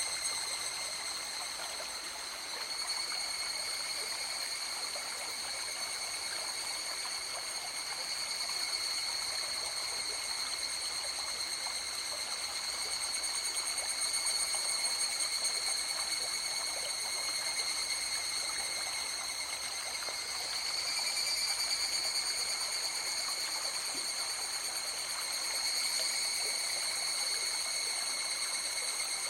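River water flowing steadily, with a steady high-pitched tone running over it.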